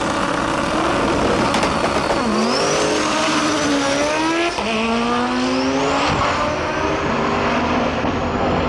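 Manual-transmission drag race car accelerating hard at full throttle, engine pitch climbing and dropping sharply at gear shifts about two and a half and four and a half seconds in, with a thin high whistle rising and falling over it.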